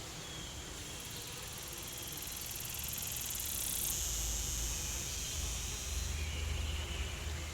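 Snake sound effect: a thin, high hiss that swells about halfway through, over a low rumble.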